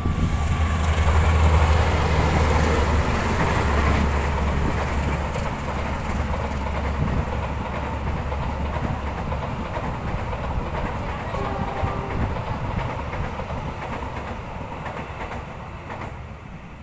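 CC 206 diesel-electric locomotive passing through with a strong low engine drone. Its passenger coaches follow with steady wheel-on-rail noise that fades as the train moves away.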